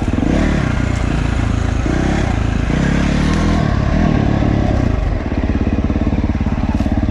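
Dirt bike engine under changing throttle, its pitch rising and falling for about five seconds, then settling into a steady low chug.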